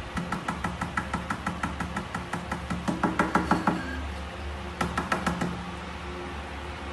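Rapid, evenly spaced light tapping or knocking, about seven taps a second, growing louder for a moment before it stops, then a second short run of taps.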